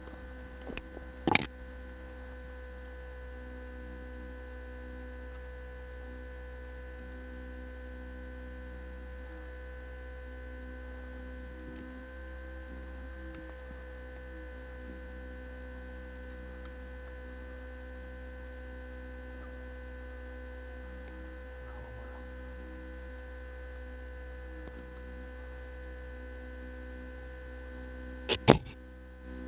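Steady electrical hum with fixed tones, broken by a sharp click about a second in and two quick clicks near the end.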